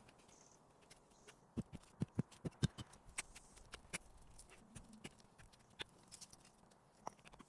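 Irregular knocks and taps from hand work: a quick run of about six heavier knocks a second and a half in, then lighter scattered clicks.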